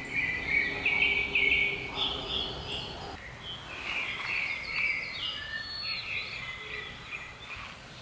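Songbirds singing: quick runs of short, high chirping phrases that die away near the end.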